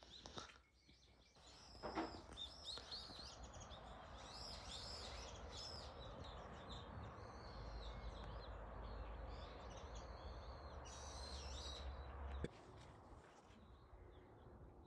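Small birds chirping in short, high calls over a steady rushing noise with a low rumble, which cuts off abruptly near the end.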